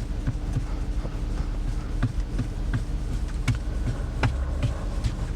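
A cloth being wiped over a car's touchscreen, with scattered light taps and rubs, over a steady low buzzing hum.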